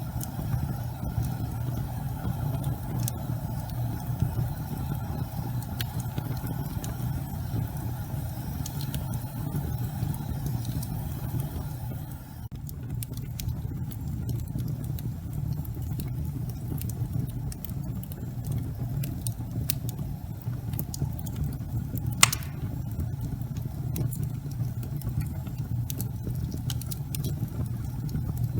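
Wood fire burning in a fireplace: a steady low rumble of flames with scattered small crackles, and one sharp, louder pop about three-quarters of the way through.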